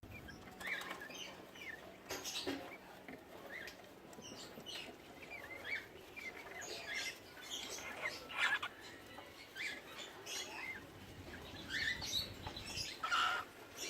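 Cockatiels giving many short, squeaky chirps at irregular intervals, with a few brief scratchy sounds among them.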